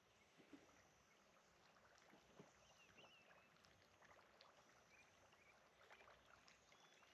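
Near silence: faint outdoor ambience with a few small scattered clicks and faint high chirps.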